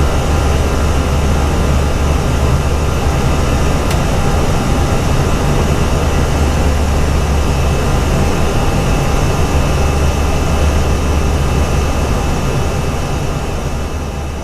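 Steady cockpit noise of an Airbus A320 in the climb: air rushing past the airframe over the engines' drone, with a strong low hum underneath. It fades down near the end.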